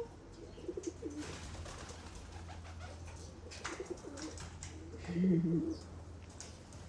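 Pigeons cooing: a soft coo about a second in and a louder, lower coo about five seconds in, with a few faint clicks between them.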